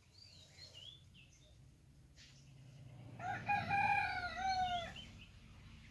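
A rooster crowing once, a single drawn-out call of about a second and a half starting about three seconds in. Before it, a few faint high bird chirps.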